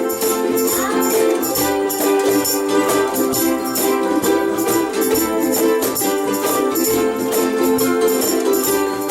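Group of ukuleles strumming chords together in a steady, even rhythm.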